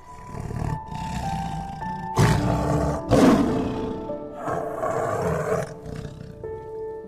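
A big cat roaring several times in rough, drawn-out calls, the loudest about three seconds in, over soft background music with held tones.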